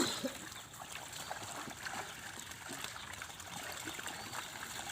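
Water trickling and dripping with small splashes, a slightly louder splash right at the start.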